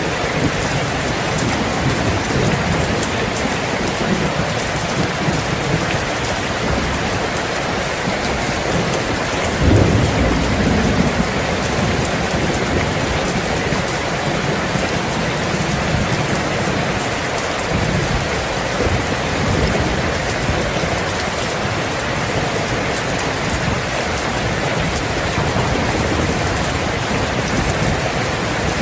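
Steady rain falling, with low rumbles of thunder underneath; the loudest rumble comes about ten seconds in.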